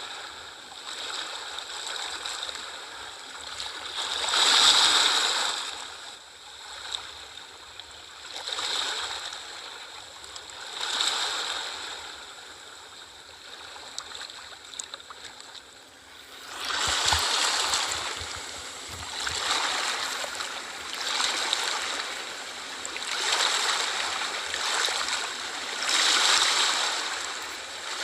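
Small sea waves washing ashore: a steady hiss of water that swells and falls back in repeated surges every two to three seconds, with the strongest surge about five seconds in.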